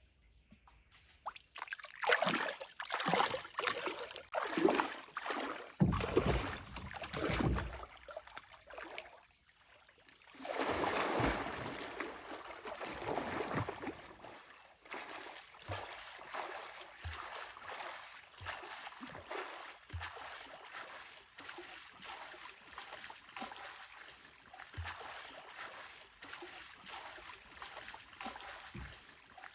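Water splashing: a run of splashes for several seconds, then a longer wash of moving water, settling into quieter sloshing with a few soft knocks.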